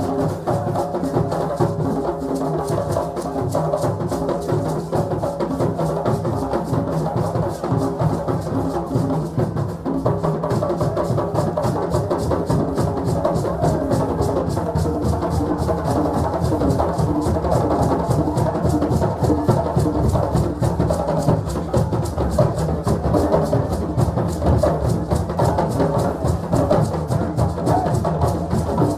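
Hand drums played in a fast, dense rhythm, with other pitched sounds over them and no break.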